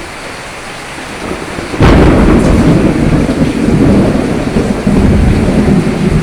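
Steady rain falling, then a sharp thunderclap just under two seconds in that rolls on as a loud, low rumble of thunder over the rain.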